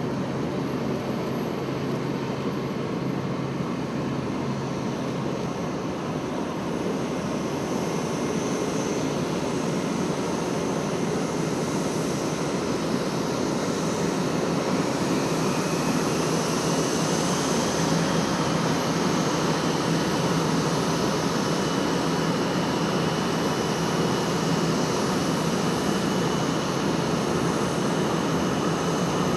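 Boeing 787 jet engines running steadily, a loud even rush with a thin high whine on top. A higher tone rises faintly about halfway through.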